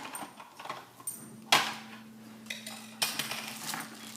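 Hard plastic pieces of a Don't Rock the Boat pirate-ship game clattering and clicking together as it is put together. The loudest knock comes about a second and a half in.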